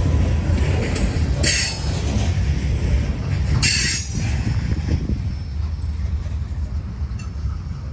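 Freight train cars rolling past with a steady low rumble. Two short, high-pitched wheel squeals sound, about a second and a half in and again just under four seconds in.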